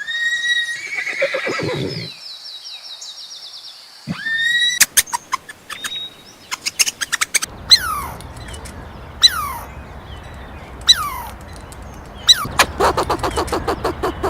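A horse whinnies, one call with several pitches falling over about two seconds. From about five seconds in, birds chirp: short calls that slide downward, mixed with sharp clicks, thickening into a rapid run near the end.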